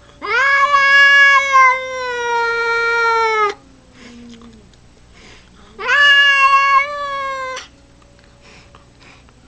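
A domestic cat giving two long, drawn-out meows: the first lasts about three seconds, its pitch sagging toward the end, and a shorter second one comes about six seconds in.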